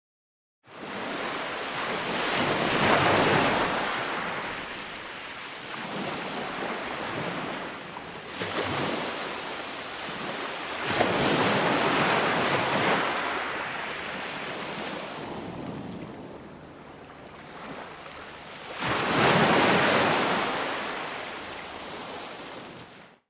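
Ocean waves breaking and washing on a shore, rising and falling in surges every few seconds, with about four big breaks. It starts suddenly after a moment of silence and cuts off abruptly near the end.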